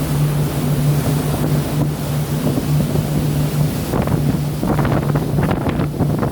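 Sea and wind noise over a steady low motor hum, with water splashing a few times in the last couple of seconds.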